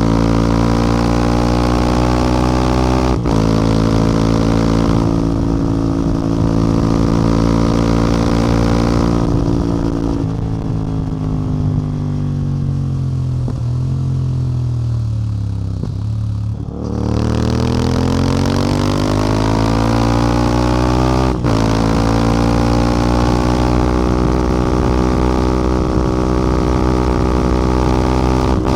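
CF Moto 450MT's parallel-twin engine and exhaust under way: a steady exhaust note with a brief break about three seconds in, then the engine speed falls steadily for several seconds as the throttle comes off. It then picks up again with a rising note, breaks briefly once more, and settles back into steady running.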